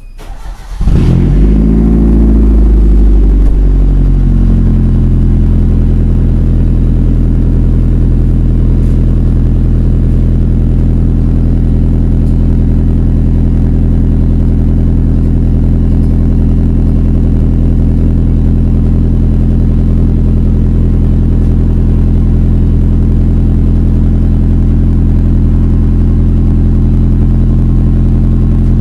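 A vehicle engine starts about a second in, flares briefly in speed, then settles into a steady idle.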